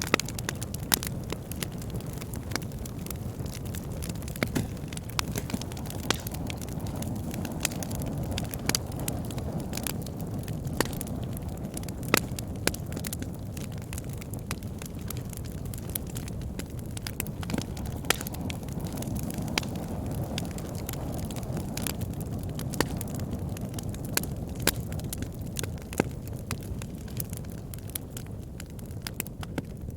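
Wood fire burning in a fireplace: a steady low rumble of flames with frequent irregular crackles and sharp pops of the burning wood.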